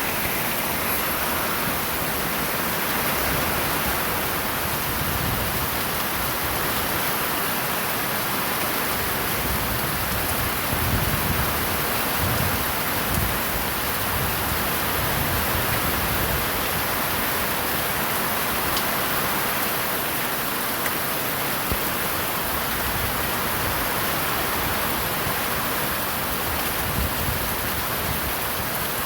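Heavy rain falling steadily, a dense even hiss of rain on surfaces with some low rumbling swells partway through.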